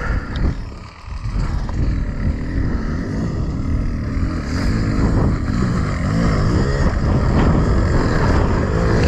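Beta Xtrainer 300's two-stroke single-cylinder engine running under a working throttle on the move. It drops off briefly about a second in, then picks up, and the revs rise and fall in the second half.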